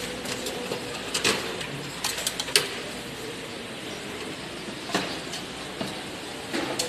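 Scattered sharp clicks and clacks of computer hardware being handled and taken apart, over a steady low hum. The loudest click is about two and a half seconds in.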